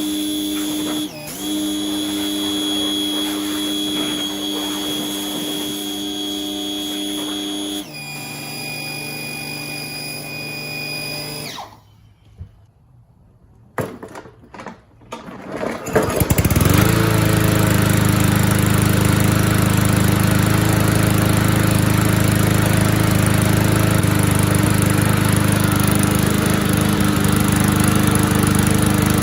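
A steady machine whine that shifts pitch once and cuts off, a few clicks, then the MTD push mower's small engine starting about halfway through, rising quickly to speed and running steadily.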